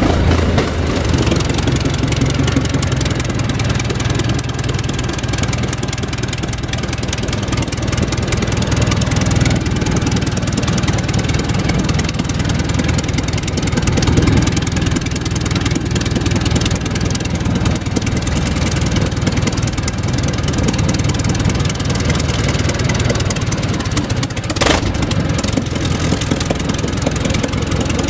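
A large old engine running steadily with a deep rumble, with one sharp click late on.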